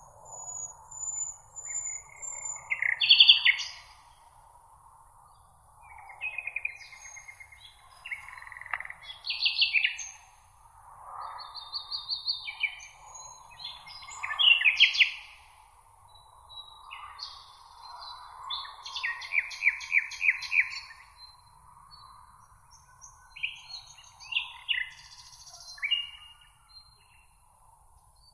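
Several songbirds singing in a meadow, short varied phrases, trills and chirps following one another with brief gaps, over a steady high hiss.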